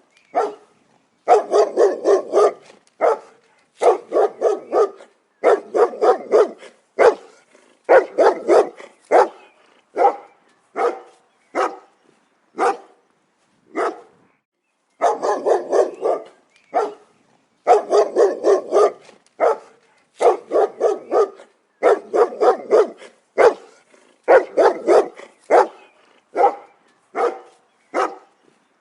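A dog barking in repeated bouts of several quick barks each, with short pauses between bouts and a few single barks in between.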